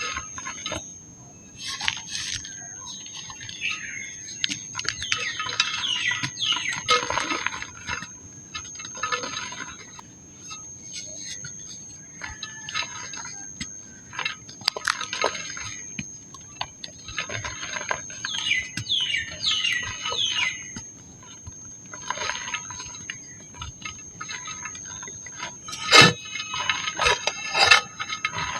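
Dry pink mud crumbling and crunching in irregular crackly bursts, with sharp cracks as pieces break and drop, louder near the end. A faint steady high-pitched tone runs underneath.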